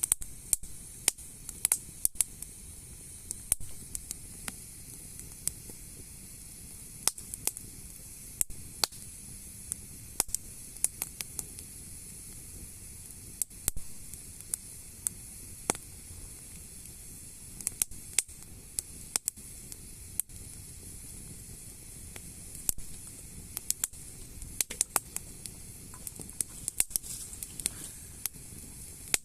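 Wood fire crackling, with irregular sharp pops over a steady soft hiss.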